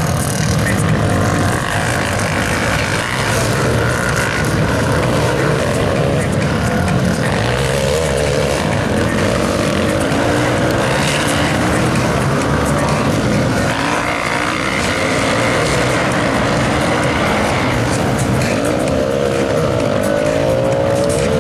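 Several supermoto motorcycle engines revving up and down on a race track, their pitches rising and falling over one another.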